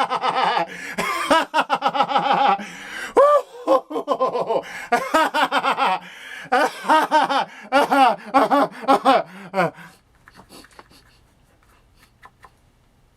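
A man laughing hard in rapid bursts for about ten seconds, then stopping.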